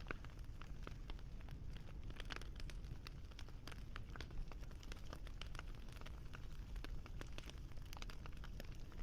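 Wood fire crackling: a dense run of irregular small pops and snaps over a low steady rumble.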